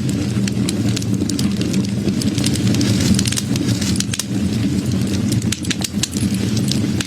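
Wood fire burning in a fireplace: a steady low rumble of the flames under frequent, irregular sharp crackles and pops.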